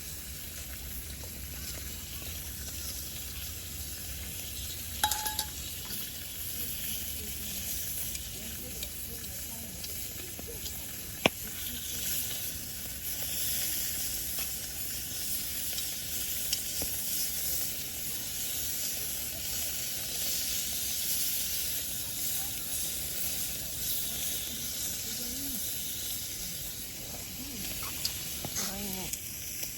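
Food sizzling on a hot iron griddle: a steady frying hiss with small crackles, and a sharp click about eleven seconds in.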